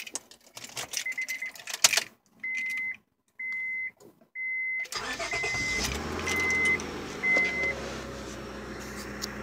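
Key clicking and rattling in the ignition, then the Honda Accord's warning chime beeping about once a second, six or seven times. About five seconds in the engine starts and settles into a steady idle under the last beeps.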